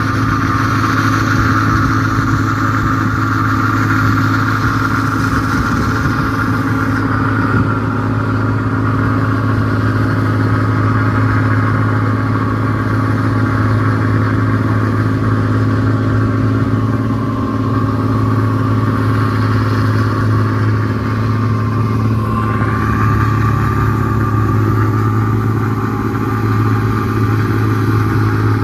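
New Holland 1545-S combine harvester running steadily, its engine and machinery giving a constant loud drone.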